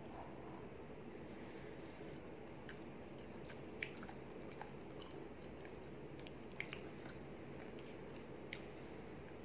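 A person chewing a mouthful of rice and spicy tuna curry eaten by hand, with a short breathy hiss about a second and a half in and a few sharp clicks.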